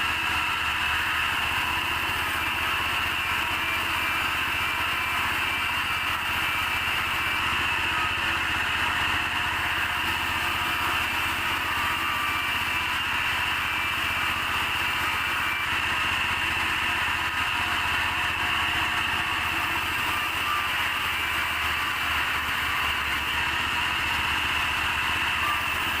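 Sawmill machinery running steadily without a break, a constant mechanical drone with a steady high whine over it.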